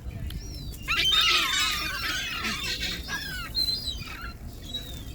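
A flock of birds calling, many short calls sliding up and down in pitch and overlapping. The calls are densest and loudest about one to two seconds in, then thin to scattered single calls.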